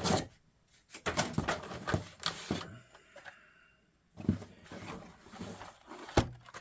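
Handling noise from blister-packed Hot Wheels cars being shuffled and rearranged: irregular plastic-and-cardboard rustles and clacks in bursts, with two short pauses.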